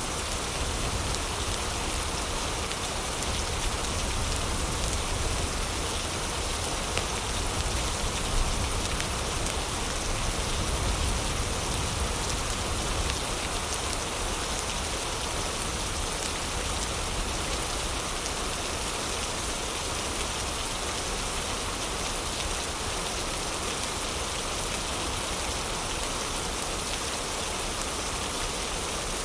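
Heavy rain falling as a steady, dense hiss, with a low rumble beneath it that eases off about halfway through. A few faint pops of a crackling fireplace come through in the first ten seconds.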